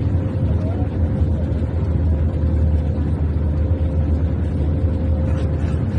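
Steady low drone of an airliner cabin in flight, a constant rumble with a steady hum above it.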